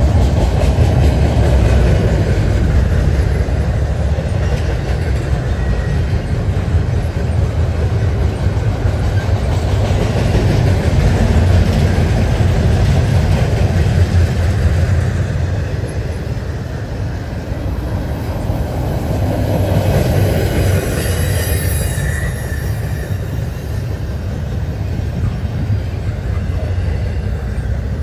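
Double-stack intermodal freight cars rolling past: a steady rumble of steel wheels on rail with clatter, and a brief faint wheel squeal about three-quarters of the way through.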